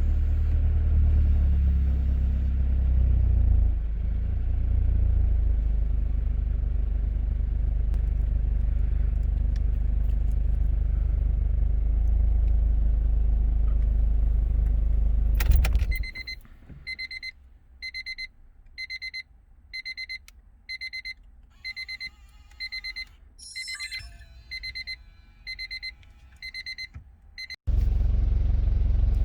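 1998 Honda Civic with an HKS Hi-Power muffler, its exhaust rumbling steadily. About sixteen seconds in the rumble cuts out, and an electronic warning chime beeps at a steady pitch about twice a second for some ten seconds. The rumble then returns suddenly near the end.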